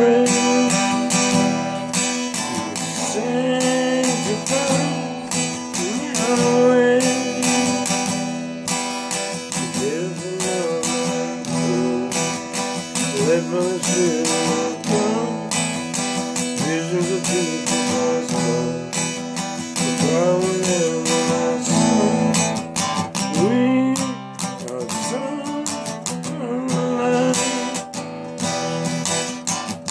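Song music: strummed acoustic guitar chords with a melody line over them that bends in pitch, with no sung words.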